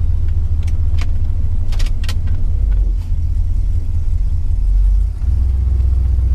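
Old Chrysler's engine running at idle, heard from inside the cabin as a steady low rumble. A few light clicks and rattles sound over it in the first two seconds.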